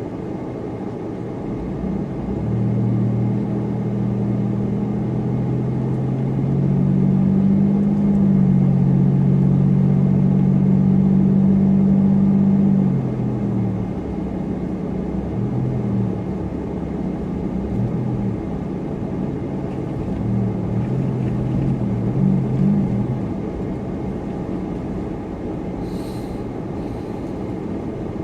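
Supercharged car being driven, its engine note rising about two seconds in and holding steady under load, then easing off and rising and falling a few times, over steady road noise.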